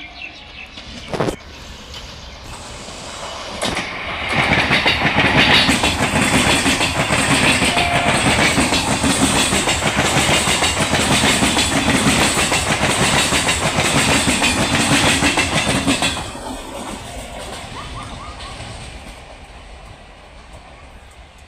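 Electric multiple unit (EMU) local train passing at speed. The sound builds as it approaches, then gives about twelve seconds of loud, rapid wheel-on-rail clatter and rushing noise, and dies away as the train recedes.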